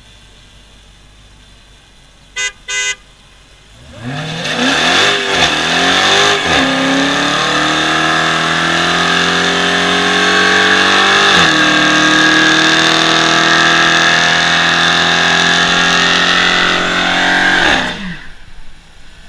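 A car horn gives two short beeps. Then a Dodge Charger Hellcat's supercharged V8 revs up and is held at high revs for about fourteen seconds during a burnout, with the pitch wavering at first, and it cuts off sharply near the end.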